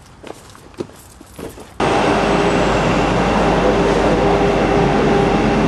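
A few light knocks, then about two seconds in a sudden loud, steady mechanical noise with several held tones.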